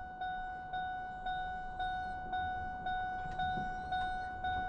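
A vehicle's warning chime dinging steadily, about two dings a second, each ding sharp and fading away, as from a pickup truck with its door left open.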